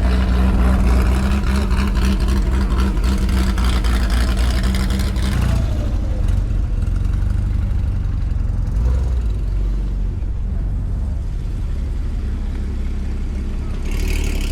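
A car engine running close by with a deep, steady rumble. Its sound changes and eases slightly about five and a half seconds in.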